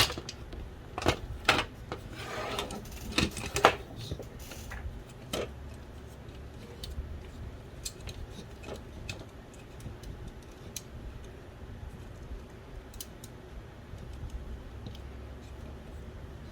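Small plastic and metal parts being handled and set down during a DVD drive teardown: a cluster of sharp clicks and taps with a brief scrape in the first few seconds, then only occasional faint ticks.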